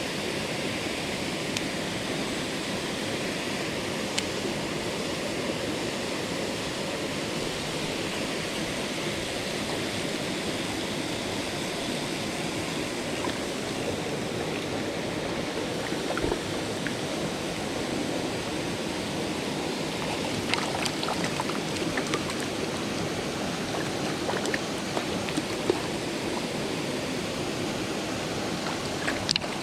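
Mountain stream water rushing steadily over rocks, with a few short clicks and ticks scattered through it, most of them in the second half.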